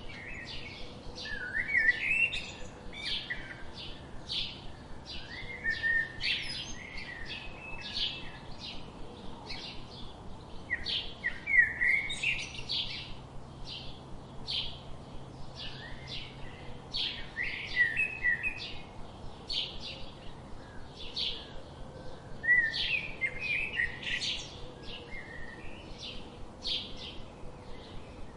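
Wild songbirds chirping: a steady run of short, high chirps a little more than once a second, broken every five or six seconds by a longer warbling song phrase.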